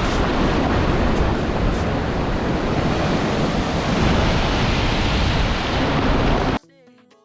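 Ocean surf washing on a beach, with wind rumbling on the microphone; the steady rush cuts off suddenly near the end.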